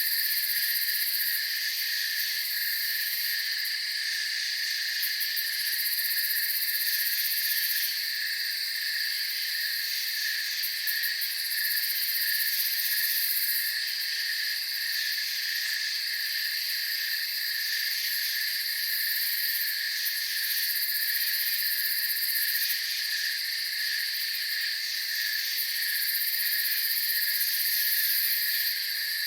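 Night chorus of crickets trilling steadily at two pitches, joined every few seconds by a very high-pitched insect call that swells in for a few seconds and drops out.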